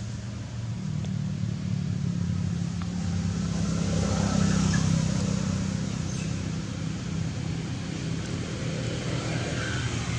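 An engine running steadily, swelling louder about four to five seconds in, then easing off.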